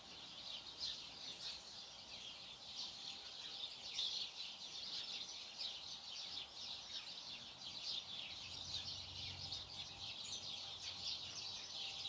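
A flock of small birds chirping and twittering, many short overlapping calls at once with no pause.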